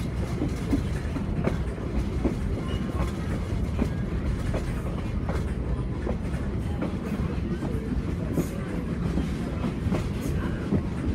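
Train car rolling along the rails, heard from aboard: a steady low rumble with the wheels clicking over the track every so often.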